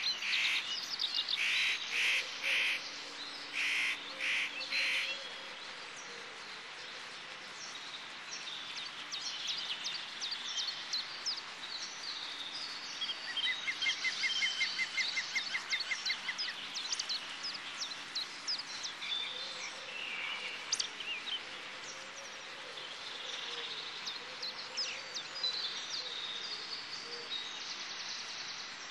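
Songbirds chirping and singing, several calls overlapping, with a loud run of chirps in the first few seconds and a fast trill about thirteen seconds in.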